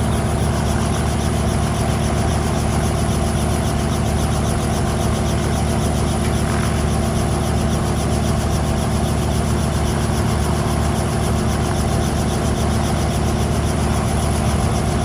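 Engine of a mini airplane running steadily at an unchanging pitch.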